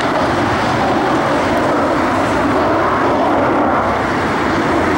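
McDonnell Douglas MD-82 jet airliner at takeoff power, its rear-mounted Pratt & Whitney JT8D turbofans giving a loud, steady jet roar.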